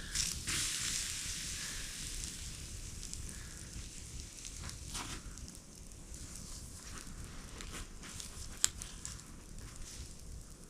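Campfire burning, with a hiss that is strongest in the first few seconds, scattered crackles, and one sharp pop about eight and a half seconds in.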